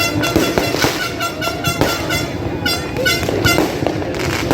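Horns tooting in quick runs of short, high blasts, three bursts of them, over the continuous bangs and crackle of New Year fireworks.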